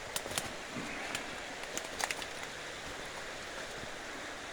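Steady rush of the Little Schuylkill River flowing, with a few sharp clicks and knocks in the first half, the loudest about two seconds in.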